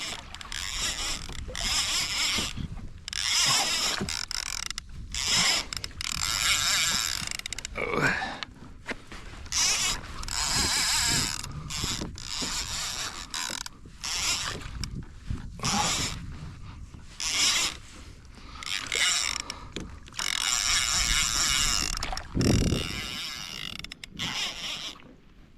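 Fishing reel being cranked hard against a heavy snapper, its gears and drag clicking and grinding in repeated bursts of about a second each. There is a heavier thump near the end.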